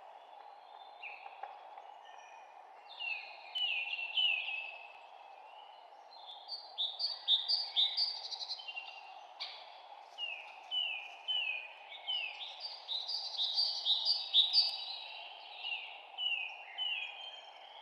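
Songbirds singing in phrases of quick, downward-sliding chirps, repeated several times, over a steady background noise.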